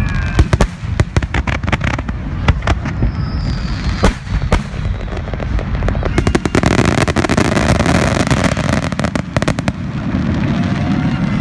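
Aerial fireworks display finale: rapid shell bursts and bangs, building to a dense run of crackling in the middle. The bangs stop near the end.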